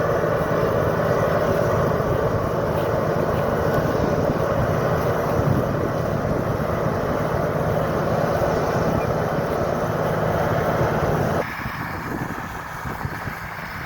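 Large farm tractor's diesel engine running steadily under load while pulling a plow. About eleven and a half seconds in, the sound cuts abruptly to a quieter, thinner tractor engine.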